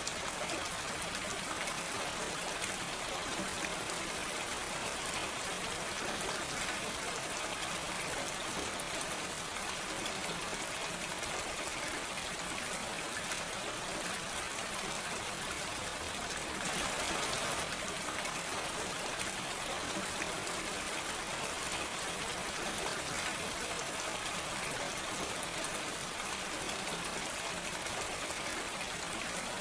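Steady, gentle rain falling, with no thunder, swelling slightly for a second or two about halfway through.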